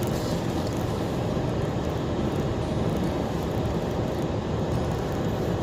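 Steady road and engine noise inside a car's cabin while driving on a snowy road.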